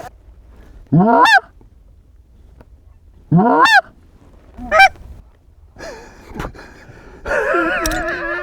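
Goose call blown by a novice caller: three loud, short honks that sweep sharply upward in pitch, then a longer wavering note near the end.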